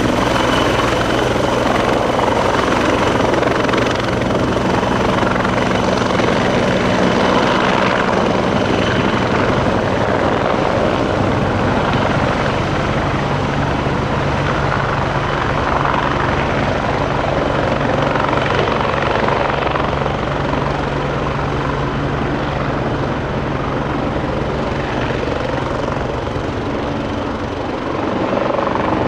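Bell 430 twin-turbine helicopter running steadily, its rotor and engines making a continuous loud noise with a steady high whine over it.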